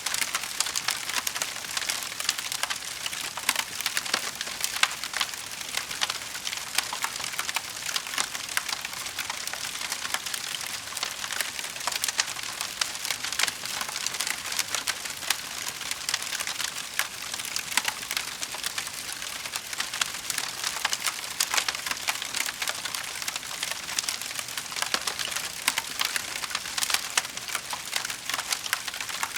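Wood fire crackling in a fireplace: a steady patter of many small, sharp pops and snaps.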